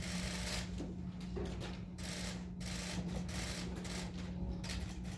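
Press photographers' camera shutters clicking in rapid, overlapping bursts, over a steady low hum.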